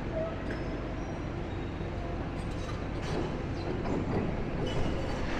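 Demolition excavator's diesel engine running at a distance as the machine moves into position: a steady low rumble.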